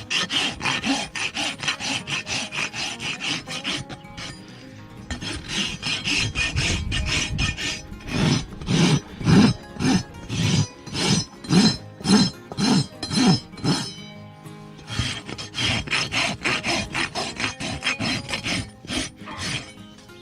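A hoof rasp filing a donkey's overgrown hoof in rhythmic back-and-forth strokes, about two to three a second, heavier in the middle.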